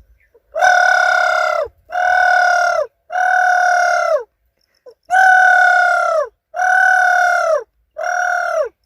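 A man imitating the call of a kavda (dove) with his voice: six loud, drawn-out calls of about a second each, each dropping in pitch at its end.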